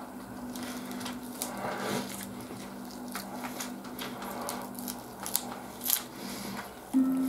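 Close-up crisp crunching and chewing of a raw lettuce leaf, in many short sharp crackles, over a steady low hum. Music begins just before the end.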